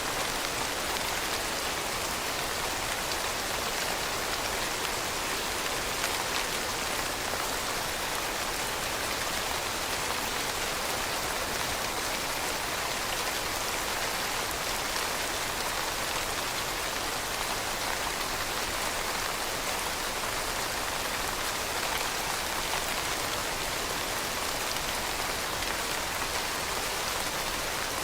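Steady rainfall pattering on a surface, an even hiss of many drops with no change in intensity.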